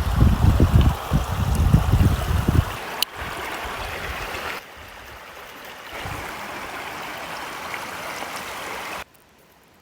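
A mountain stream running, a steady rushing of water, with heavy low buffeting in the first couple of seconds. The sound changes level abruptly several times and drops almost to nothing near the end.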